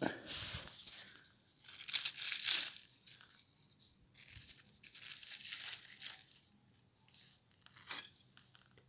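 Plastic bag being crumpled and torn in three bouts of crinkling, with a short snap near the end.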